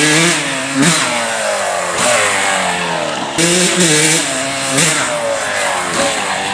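Dirt bike engine revving: the pitch jumps up with a blip of the throttle and then slides down, about every second and a half.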